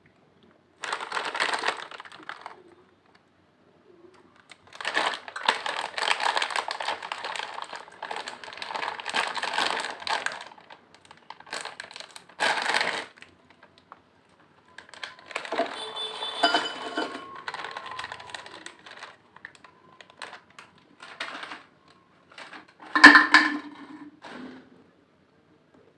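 Lay's potato chips being bitten and crunched close to the microphone, in bursts of crisp crackling separated by short pauses. The loudest, sharpest crunch comes near the end.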